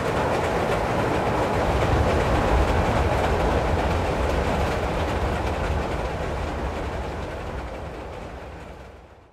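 Train running along the tracks: a steady low rumble with fine clicking that starts suddenly, then fades away gradually over the second half.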